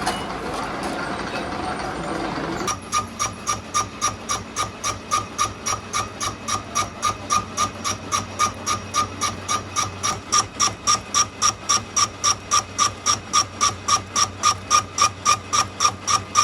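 Workshop machine noise: a steady hiss, then a few seconds in a regular metallic stroking starts, about four strokes a second, each with a ringing tone, growing louder past the middle.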